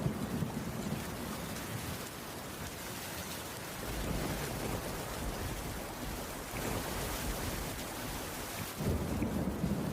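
Heavy rain falling steadily, with a low rumble that swells near the start and again near the end.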